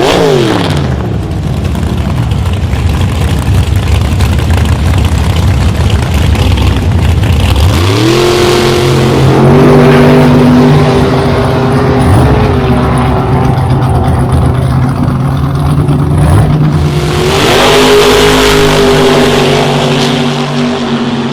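Loud hot rod engine with a low rumble that, about eight seconds in, rises in pitch and holds steady at high revs, climbing again a few seconds before the end.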